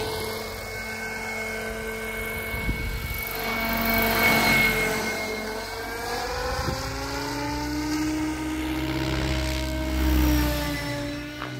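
KDS Agile 7.2 700-size RC helicopter in flight: rotor and drivetrain tones with a steady high whine, their pitch sliding down and back up as the head speed changes. The sound swells about four seconds in and again about ten seconds in.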